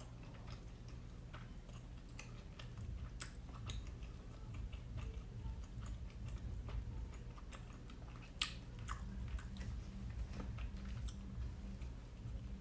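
Close-miked chewing of steamed siomai dumplings and rice, with irregular wet mouth clicks.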